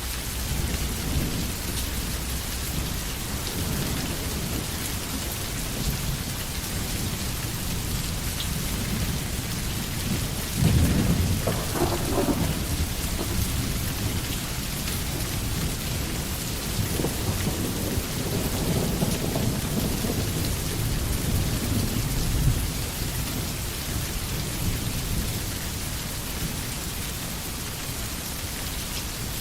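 Steady heavy rain falling with low rolls of thunder. The loudest roll starts suddenly about ten seconds in, and softer rumbling comes a few seconds later.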